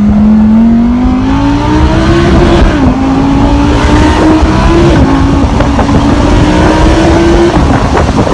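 Lamborghini Huracan Spyder LP610-4's 5.2-litre V10 pulling hard under acceleration, its pitch rising steadily through the gears. The pitch drops twice, about three and five seconds in, as the gearbox upshifts, then the engine eases off near the end.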